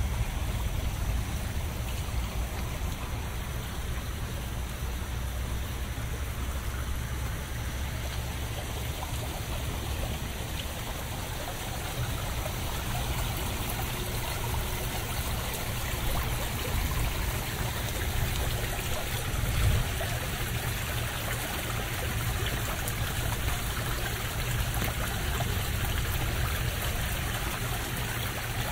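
Steady rain falling with runoff trickling, an even continuous wash of water noise over a low rumble.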